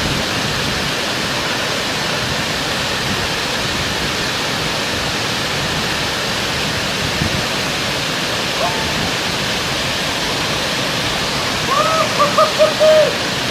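Waterfall rushing steadily, a constant hiss of falling water. Near the end a person's voice calls out in a few short bursts.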